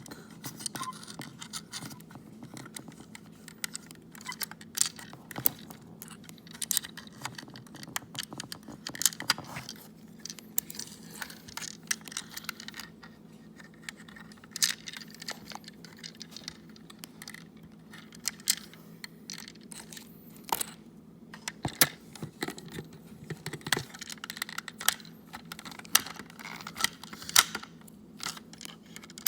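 Irregular clicks, taps and scrapes of a plastic toy steamroller's hard plastic housing and small parts being handled and pried at while it is taken apart.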